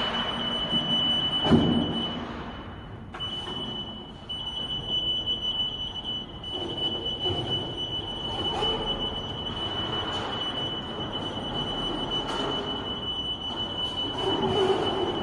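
Steady high-pitched electronic warning tone from a BRAVI Sprint order picker's alarm buzzer, cutting out briefly about three seconds in, over the machine's mechanical noise, with a knock about a second and a half in.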